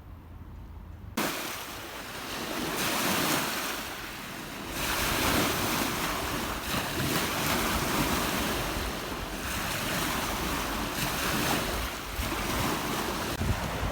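Wind and waves washing on a lakeshore, starting suddenly about a second in and then swelling and easing every few seconds.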